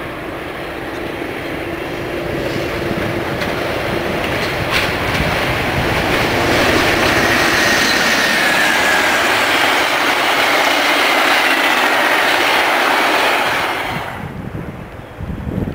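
A train passing on the line: the rumble of wheels on rail builds up, holds loud and steady for several seconds, then falls away sharply near the end as the train clears. A faint high tone slides slightly downward through the middle of the pass.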